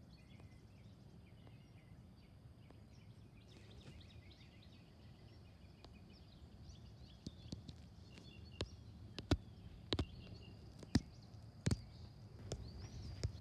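Quiet background noise with a low steady rumble and faint high chirps. From about seven seconds in come a string of sharp clicks or knocks, several of them louder than the background.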